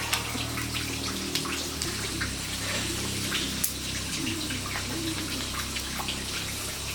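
A steady hiss like running water, with scattered small ticks and clicks throughout.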